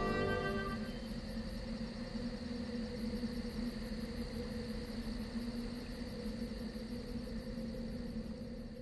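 An orchestral music ending dies away within the first second. It leaves a steady drone of held tones over a soft hiss, with a fast, faint, insect-like pulsing high up. The drone fades out at the very end.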